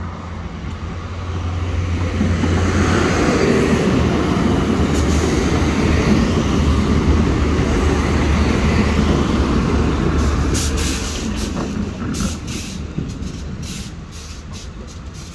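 Northern Ireland Railways diesel multiple unit passing over a level crossing: low engine drone and the rumble of wheels on rails, growing louder over the first few seconds, holding, then easing as the train draws into the station. A run of sharp clicks comes near the end.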